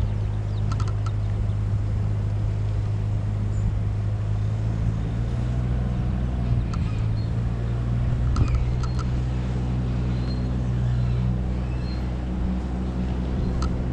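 An engine running at a steady idle, with a few short light clicks and clinks over it.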